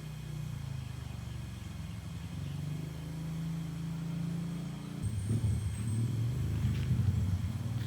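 A motor engine running steadily at low pitch, growing louder and rougher about five seconds in.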